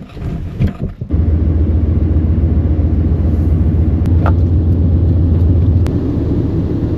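A few knocks, then a motor starts sharply about a second in and runs with a loud, steady low hum that does not change in pitch.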